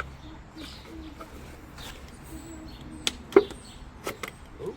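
A handful of sharp clicks and snaps in the second half, the loudest about three and a half seconds in, from a plastic gallon orange-juice jug being cut into a grain scoop. Birds call faintly with a few low coos.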